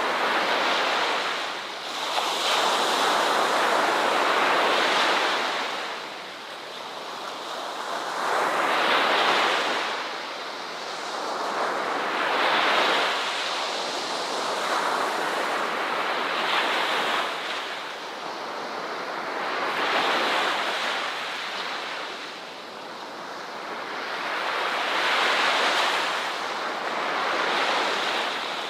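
Ocean waves breaking on a beach, the surf hiss rising and falling in swells every three to four seconds.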